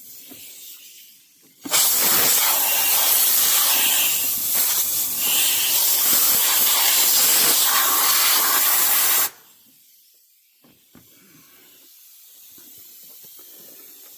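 Compressed air blasting from a blow gun: a loud, even hiss that starts abruptly about two seconds in, holds for about seven and a half seconds and cuts off sharply, blowing debris out of the drilled hole in the engine's timing chain cover.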